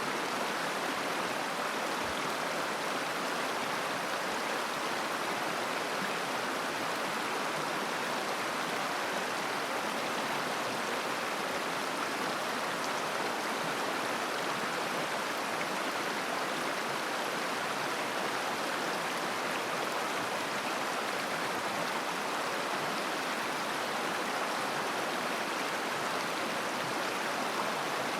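A river flowing and babbling, a steady, even rush of water with no pauses or distinct splashes.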